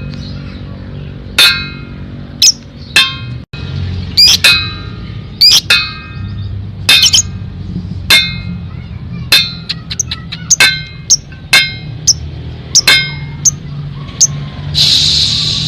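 Lovebird giving short, shrill single chirps at irregular intervals over a steady low background music bed, with a dense burst of calling starting near the end.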